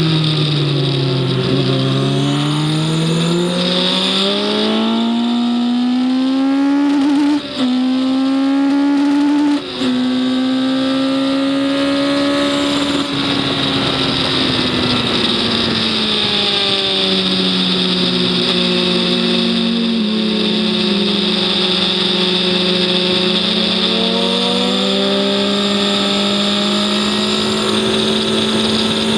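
Racing engine heard onboard on a circuit lap: it dips, then revs up steadily with two quick gear changes, then the revs fall away and hold fairly steady, with wind rush throughout.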